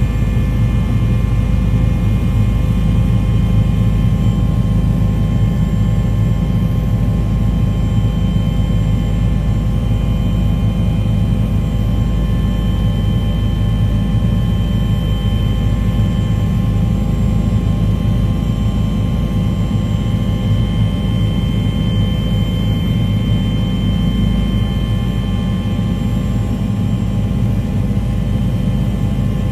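Aircraft engine drone: a constant low rumble with several steady tones above it, unchanging throughout.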